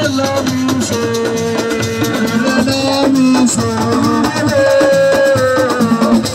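Assiko band music: a shaker rattles over drums under a stepping melodic line.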